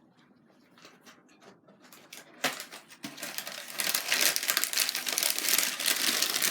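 Packaging being handled: quiet at first, a sharp click about two and a half seconds in, then dense rapid crackling and clicking that grows louder.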